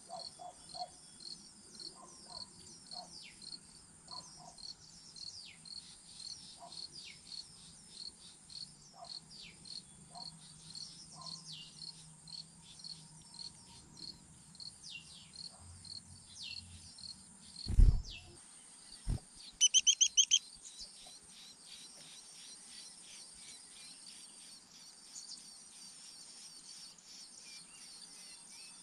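Insects chirping steadily, about two short high chirps a second, with scattered bird calls. About 18 s in there is a loud low thump, then a brief run of loud, rapid, high chirps.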